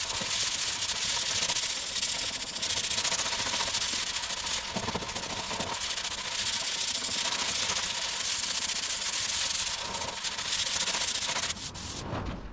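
Sanding body filler on a car's front wing: a continuous scratchy abrasive hiss that swells and eases, thinning out near the end.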